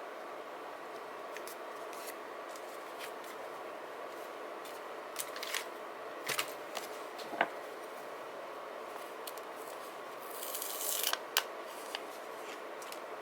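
Scissors cutting paper in short snips, with light clicks of paper and stationery being handled, over a steady low hiss. A longer cut with a rustle of paper comes about ten seconds in.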